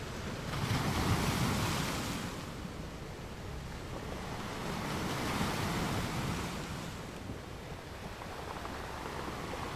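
Wind buffeting the microphone over the wash of sea water, swelling louder twice: about a second in and again around five seconds.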